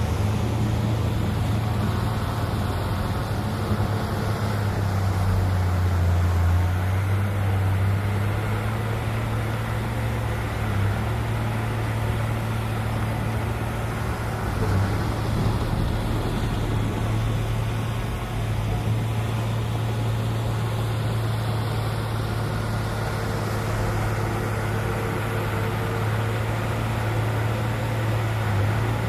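Heavy diesel earthmoving machinery running steadily, a deep engine hum that shifts slightly in pitch and load as it works.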